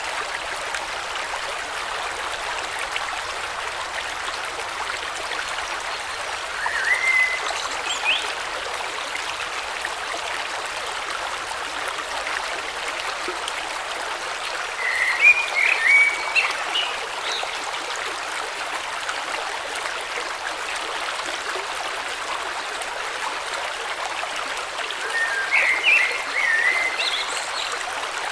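A river flowing steadily. Over it a bird sings short chirping phrases three times, about every ten seconds.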